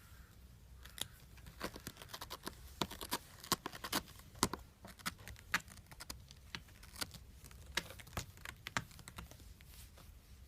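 Kitten playing: a quick, irregular run of sharp clicks, taps and rustles from its claws and paws scrabbling at things, starting about a second in and dying away near the end.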